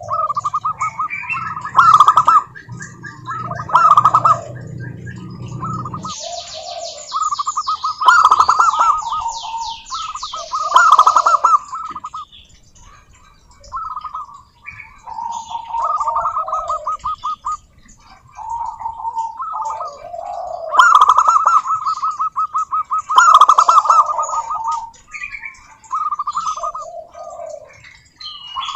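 Zebra doves calling: repeated bursts of rapid, staccato cooing notes, several calls following and overlapping one another, some of them loud. A higher, fast chirping series comes in about six seconds in, and a low hum stops at the same point.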